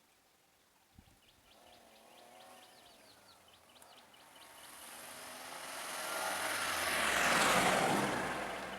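A road vehicle passing close by: its noise swells over several seconds, peaks near the end with a falling pitch, and starts to fade. Birds chirp faintly before it arrives.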